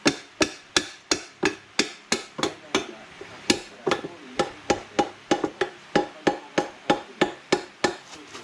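Hammer blows struck in a steady series, about three a second, each with a short ring, with a brief pause about three seconds in, as part of changing a scooter's front tyre.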